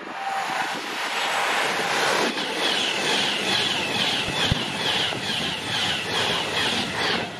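A train passing on the West Coast Main Line, a loud, steady rush of wheel and rail noise. From about halfway through, a high chirp repeats about twice a second over it.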